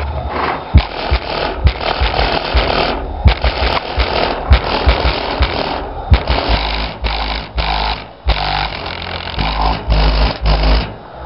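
Loud bass-heavy music played through two Alpine 10-inch subwoofers in a custom box inside a vehicle's cabin. The rhythmic bass hits break up into a harsh, buzzing distortion.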